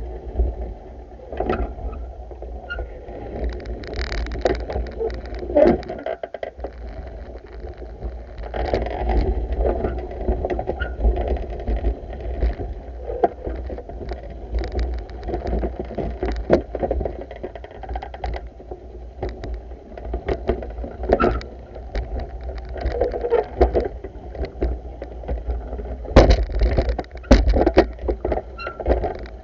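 Pool water sloshing and lapping with scattered knocks as a pool vacuum is worked along the pool, over a steady low rumble of wind on the microphone.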